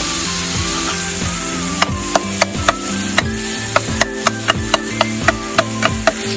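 Food sizzling in a hot pan during a stir-fry, with a metal utensil striking the pan in quick clacks, about three or four a second, from about two seconds in.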